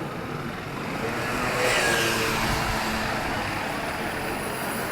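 A car passes by on the street, its tyre and engine noise rising to a peak about two seconds in and then fading, over the town's general street noise.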